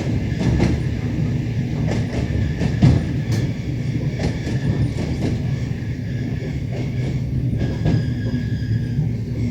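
Passenger train running along the line, heard from inside the carriage: a steady low rumble of the wheels with irregular knocks over the rail joints, the loudest about three seconds in.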